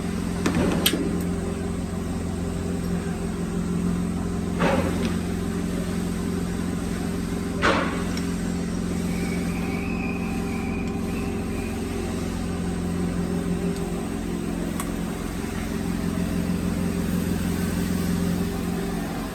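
Woodworking mortising machine running with a steady motor hum, with three sharp knocks in the first eight seconds. The motor shuts off at the very end.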